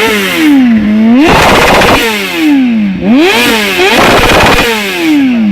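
Motorcycle engine being revved hard through its exhaust, stationary: the revs climb quickly, turn harsh at the top, and fall away, twice.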